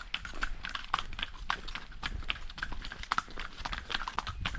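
A quick, irregular run of sharp clicks and knocks, several a second.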